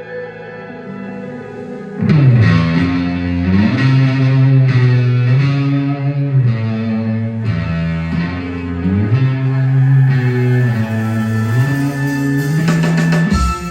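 A live rock band plays with effects-laden electric guitar. A quiet sustained chord opens, and about two seconds in the band comes in loudly over a moving bass line.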